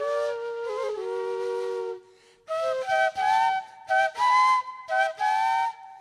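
Background music: a solo flute melody. A phrase sinks to a held low note, breaks off about two seconds in, then resumes with quicker short notes.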